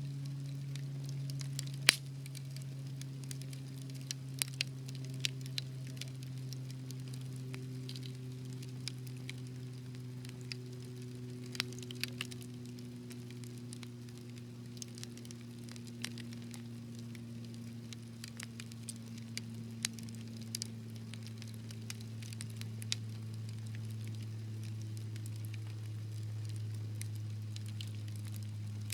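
Wood fire crackling, with scattered small pops and one sharper pop about two seconds in. Under it runs a low steady hum that slowly sinks in pitch.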